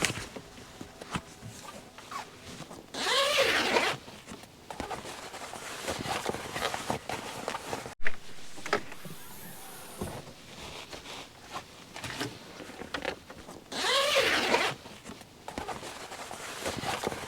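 A zipper pulled open or shut twice, each pull a quick rasp just under a second long, about three seconds in and again near the end. A single sharp knock falls between them, with light handling clicks and footsteps around.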